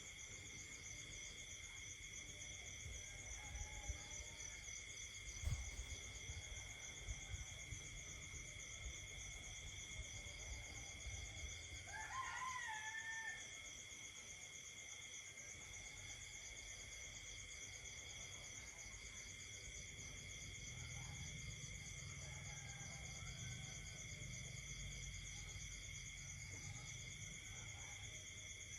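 Night chorus of insects and frogs: several steady, unbroken high trills, one of them pulsing rapidly. About twelve seconds in, a single call rises and then holds for about a second and a half over the chorus.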